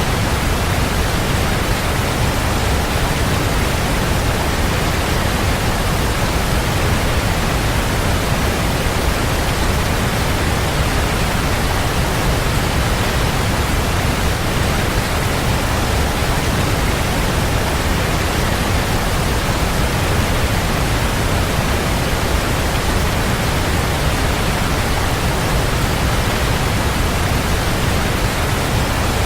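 Waterfall: a steady, unbroken rush of falling water, with a deep low rumble under the hiss.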